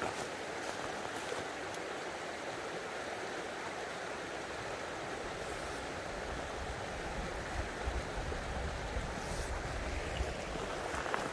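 Mountain stream flowing with a steady rush of water, with a low rumble for a few seconds in the middle.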